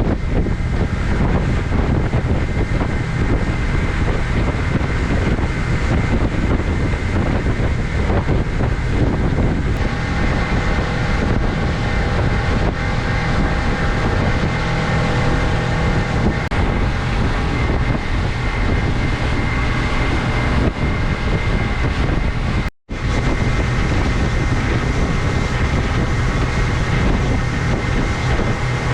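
Tri-toon pontoon boat underway: its outboard motor runs with a steady hum under heavy wind buffeting on the microphone.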